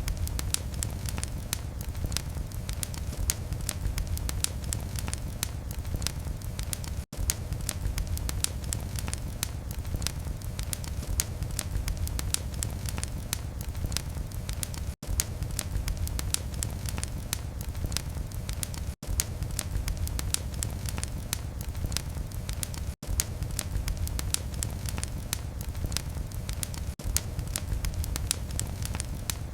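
Wood fire in a fireplace burning with a steady low rumble and many sharp, irregular crackles and pops. The sound cuts out for an instant several times.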